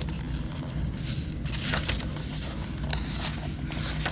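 Paper rustling as a small guidebook is handled and its pages are turned, in several brief rustles over a steady low hum.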